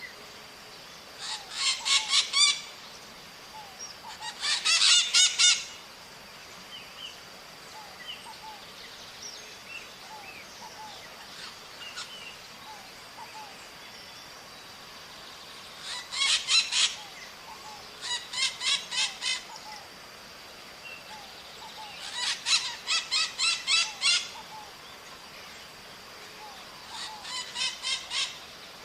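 Maritacas (small Brazilian parrots) calling in six loud bouts of rapid, harsh, repeated squawks, each bout lasting one to two seconds with long pauses between. Soft chirps from other birds and a faint steady high whine run underneath.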